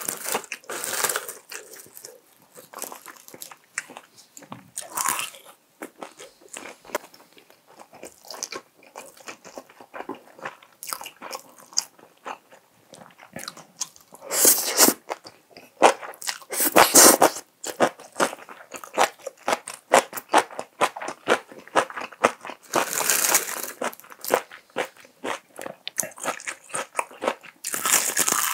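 Close-miked chewing and biting: a person eating spicy braised tofu with rice and crunchy stir-fried seaweed stems, with many small wet mouth clicks and louder bursts of crunching about halfway through and near the end.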